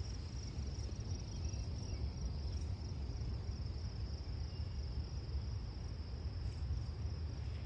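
Insects trilling steadily at one high pitch, over a steady low rumble, with a few faint short chirps.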